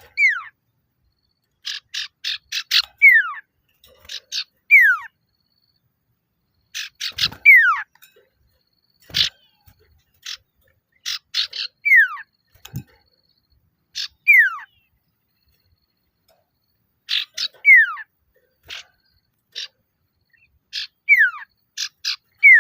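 Male common iora (sirtu, cipoh) calling to rivals: repeated bursts of quick chattering notes, each ending in a clear whistle that slides down in pitch, every few seconds.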